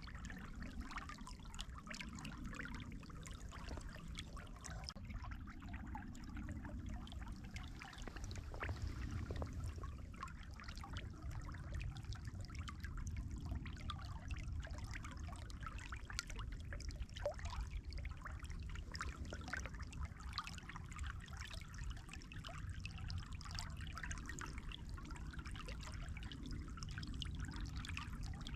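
Water trickling and splashing steadily, like a small stream running, with a low rumble underneath.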